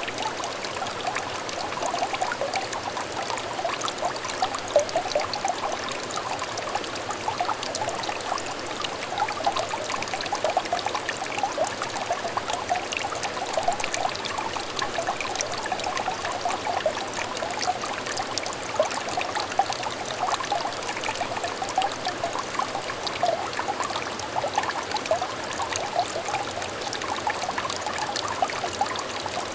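A small trickle of water running in a clear stream, burbling steadily with many small bubbling splashes.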